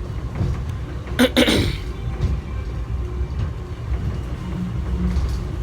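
Airport subway train running, a steady low rumble heard from inside the car. About a second in, a brief, louder voice-like sound from a person cuts through it.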